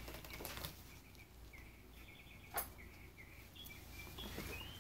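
Faint bird chirping: a run of short, high chirps, busier in the second half, with one sharp click about two and a half seconds in.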